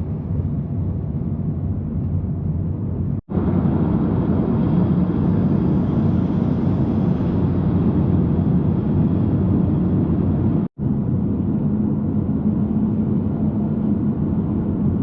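Steady road and engine noise of a moving car, heard from inside the taxi's cabin, dropping out abruptly for an instant twice.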